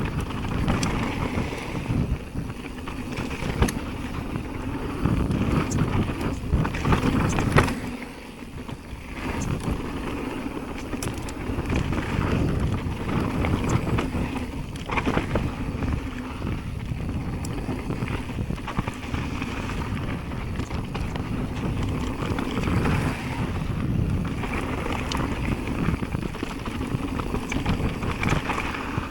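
Jamis Hardline mountain bike ridden fast down a dirt trail: tyres rolling over rough ground, with clicks and knocks from the bike rattling over bumps and wind noise on the microphone. The noise drops briefly about eight seconds in.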